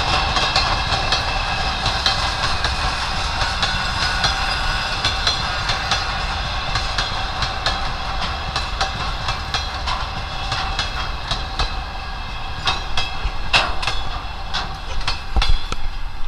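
Freight train hauled by a ChME3 diesel shunting locomotive rolling by: the wagon wheels click over the rail joints under a steady, high metallic squeal. There are a few sharper clicks near the end.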